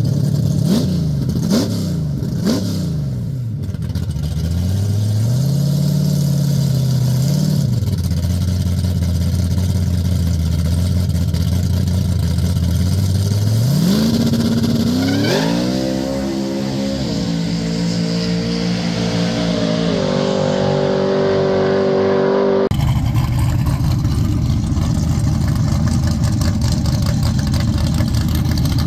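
Drag car engine blipped several times, settling to a steady idle, then revved up hard and held at high revs, climbing in steps. It cuts off suddenly to another car engine idling steadily.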